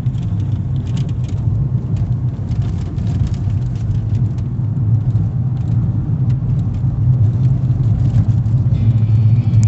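Car driving along, heard from inside: a steady low engine and road rumble with scattered small knocks and rattles.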